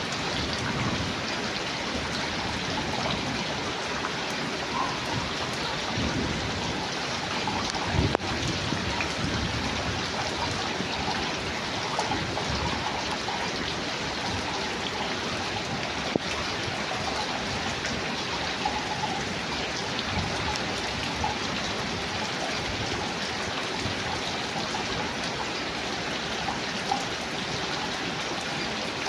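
Steady rain falling, an even hiss of drops, with a few sharper drips or taps now and then.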